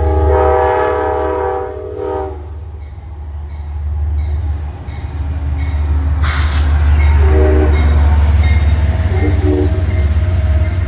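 Diesel train horn sounding a chord for about two seconds over the steady low rumble of a locomotive engine. A sudden hiss comes about six seconds in, and a few short tones follow later.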